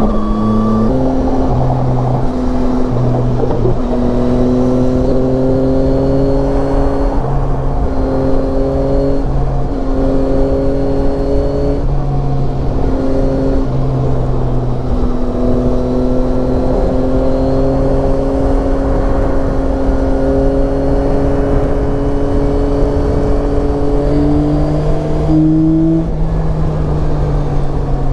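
Yamaha Tracer 9's 890 cc three-cylinder engine running steadily under way, its pitch holding level or climbing slowly over long stretches, with a brief rise and drop in pitch near the end. A steady rush of wind noise lies underneath.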